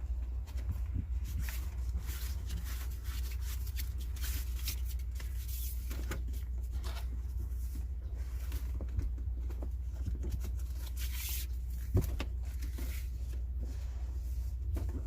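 Scattered rustles, clicks and light knocks of hands handling parts, with one sharper knock near the end, over a steady low rumble.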